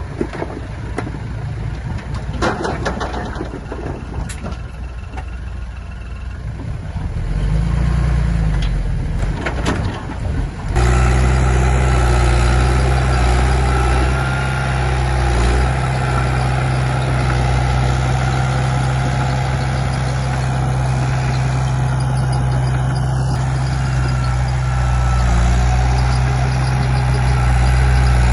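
Diesel engine of earth-moving machinery running. For the first ten seconds it is quieter, with scattered clicks and knocks. About eleven seconds in it turns abruptly much louder and then runs steadily.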